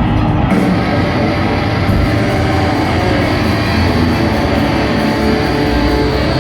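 A rock band playing loudly live, electric guitars over a heavy low end, continuous and dense without a break.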